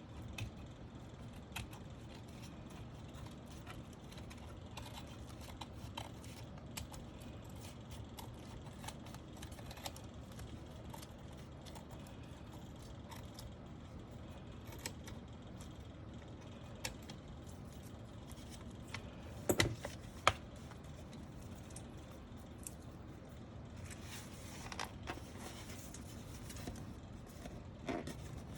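Scattered small plastic clicks and taps from mechanical keyboard parts being handled, over a steady low hum. Two sharper, louder clicks come about two-thirds of the way through.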